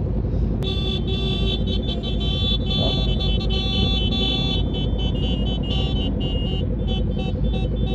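Motorcycle engine running under a high-pitched electric buzz that starts about half a second in and keeps cutting in and out: the bike's horn faltering, which the rider calls not working.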